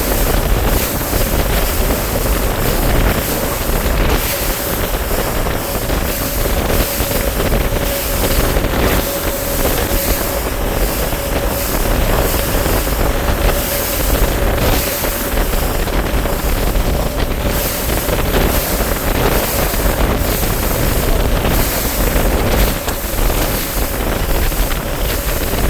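A bass boat's outboard motor running steadily underway, with a constant whine, while wind rushes over the microphone.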